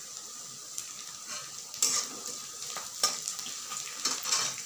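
Chopped garlic and onions frying in mustard oil in a steel kadhai: a steady sizzle, with a metal spatula scraping against the pan a few times.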